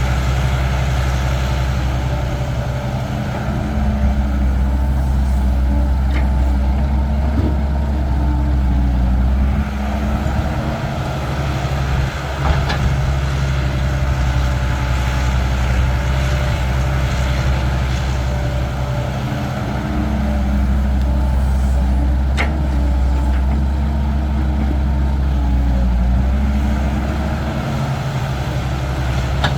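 Cat 312 excavator's diesel engine running steadily, its level rising and falling with the work, with a few sharp knocks spread through.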